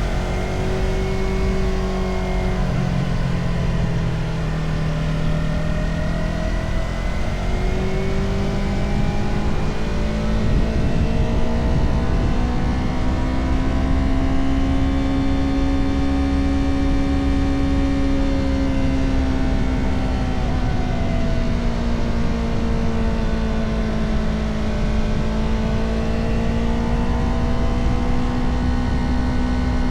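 Motorcycle engine running on the road. Its pitch climbs slowly to a peak about halfway through, falls away, then climbs again near the end as the bike speeds up and eases off.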